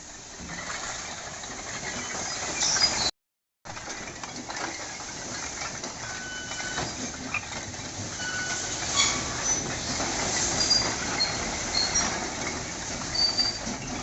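A load of bricks sliding and clattering out of a tipping Tata Signa 1923 truck body: a dense, continuous rattle of bricks knocking together, with short high ringing clinks. The sound cuts out for about half a second about three seconds in.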